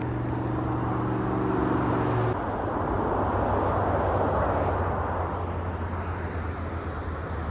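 A steady engine drone whose low hum shifts abruptly about two seconds in, with a rushing noise that swells and fades.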